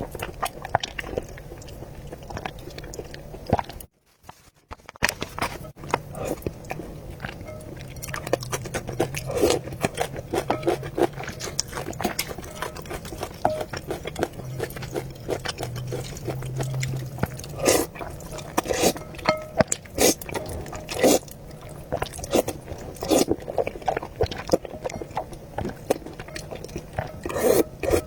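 Close-miked eating sounds: chewing and biting on noodles, a quick run of short wet mouth clicks and smacks. The sound drops out briefly about four seconds in.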